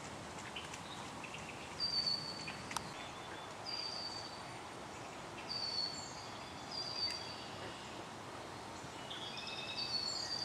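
Birds calling: short, high, slightly falling whistled notes about every two seconds, then a busier run of several overlapping notes near the end, over a steady outdoor background hiss.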